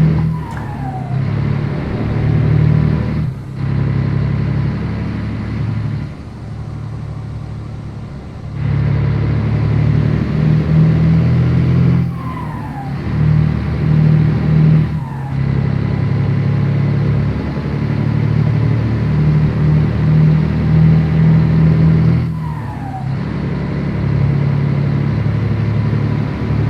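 Scania 113 truck's straight-six diesel engine pulling under load while driving. Its note climbs, then drops away briefly several times as gears are changed, with a short falling whistle at some of the changes.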